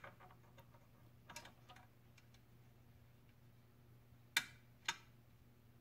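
Faint light clicks and taps of small metal parts, a washer and rocker arm, being set in place on a small press, with two sharper clicks near the end. A faint steady low hum sits underneath.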